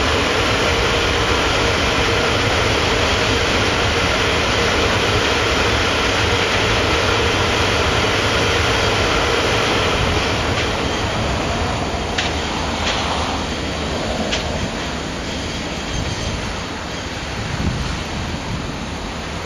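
Freight train wagons rolling past on the rails with a steady rumble, which eases off about halfway through. Then come a few sharp clicks and a brief wheel squeal.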